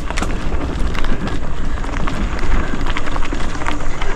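Mountain bike rolling along a dirt trail: steady tyre noise and many small rattling clicks from the bike, with wind rumbling on the microphone.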